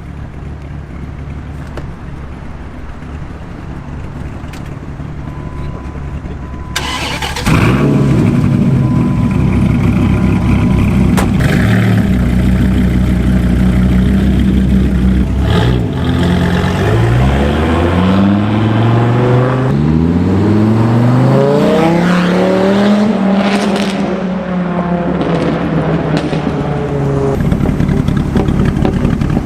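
Dodge Viper V10 on a straight-pipe exhaust idling loudly; it gets suddenly louder about a quarter of the way in. Past the middle it is revved in a series of quick climbs, each higher than the last, before the revs fall back to idle.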